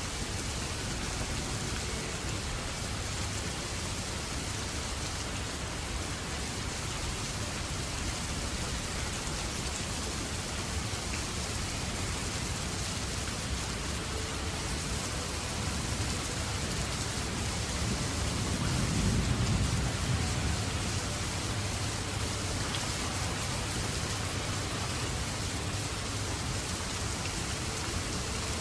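Steady rain falling. About two-thirds of the way through comes a low rumble that swells and fades over a couple of seconds, like distant thunder.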